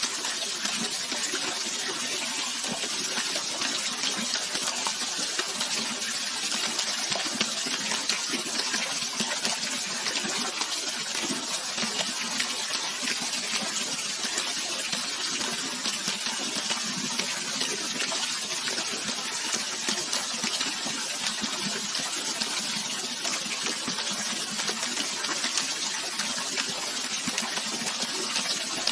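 Flowing water rushing and splashing steadily, a bright even hiss with little low rumble.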